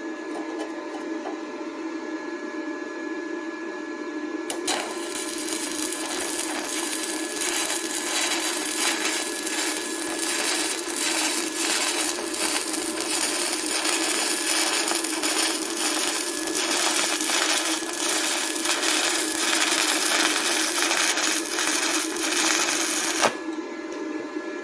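Stick welding arc from a 1/8-inch 6013 rod on an inverter welder at 32 amps: a dense crackling sizzle that strikes with a click about five seconds in, runs steadily, and cuts off a second or so before the end. A steady hum lies under it throughout.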